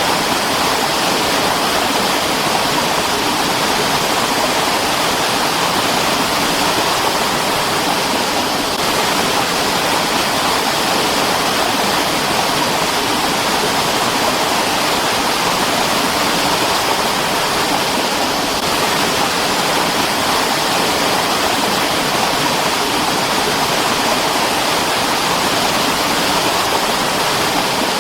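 Mountain stream rushing steadily over rocks, a constant full splashing hiss with no breaks.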